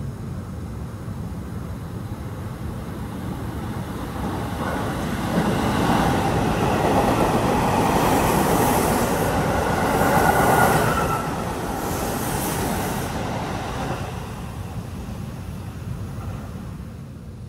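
Seibu Ikebukuro Line commuter train running through a station without stopping: the rumble and clatter of its wheels on the rails swells, is loudest about six to eleven seconds in with a brief high tone near the peak, then fades away.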